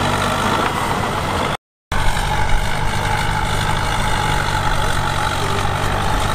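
Heavy diesel engine of earthmoving equipment running steadily. The sound drops out completely for a moment about a second and a half in, then the engine carries on as before.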